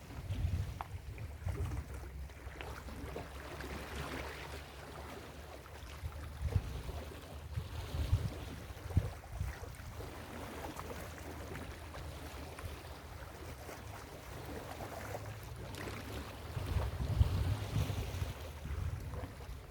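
Ocean waves breaking and washing up a beach, with wind buffeting the microphone in gusts that are strongest near the end.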